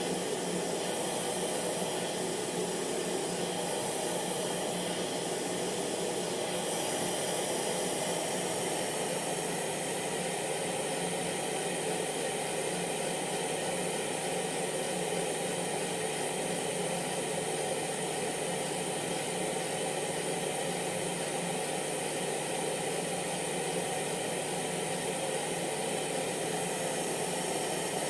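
Hair dryer running steadily: a continuous airy whoosh of fan and blown air with a faint motor hum.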